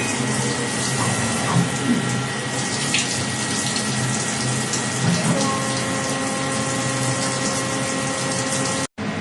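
Emco Turn 220 CNC lathe running: a steady rushing noise with several steady whining tones over it. The sound drops out for an instant near the end.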